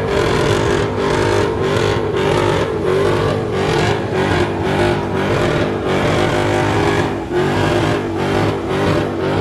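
Car engines running and revving, a loud steady engine note that wavers in pitch.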